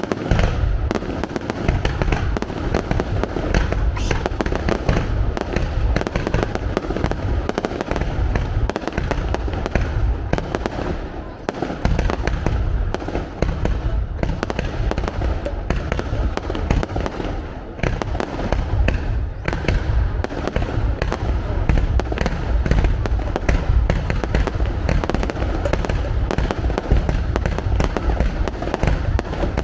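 Fireworks display: a dense, continuous barrage of bangs and bursts with a heavy low rumble, barely letting up for the whole stretch.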